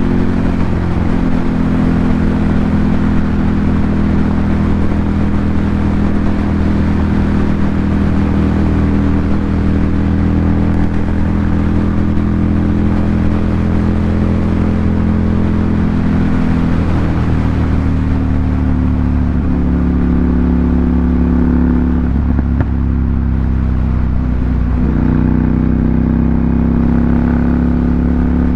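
Ducati Monster 797's air-cooled L-twin engine running through an aftermarket SC Project exhaust. The note holds steady, and its pitch shifts a few times from the middle onward.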